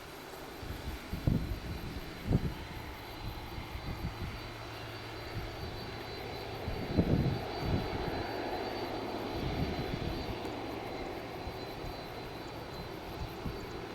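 Jet engines of a landing Boeing 767-300ER airliner running: a steady rush with a faint high whine that swells a little about halfway through. A few short low thumps cut in, the loudest about halfway through.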